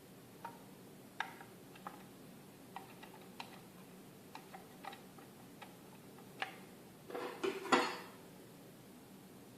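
Parts of a ResMed H4i humidifier water chamber being handled and taken apart: a dozen or so light clicks and taps, then a louder clatter and scrape about seven seconds in.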